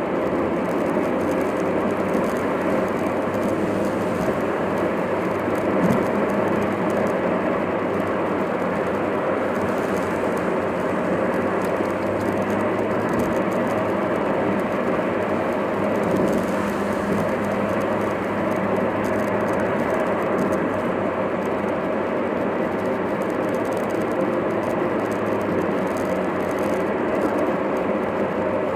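Steady road and engine noise of a car driving, heard from inside the cabin, with an even hum and no sudden events.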